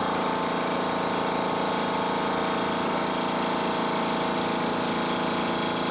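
Tuxing TUXD11 high-pressure air compressor running steadily under load while filling a tank: an even, quiet machine hum with several steady tones.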